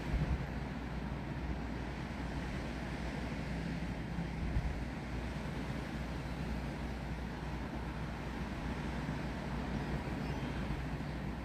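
Wind blowing through trees with rain, a steady rushing noise over a low rumble of wind on the microphone; brief louder gusts just after the start and about four and a half seconds in.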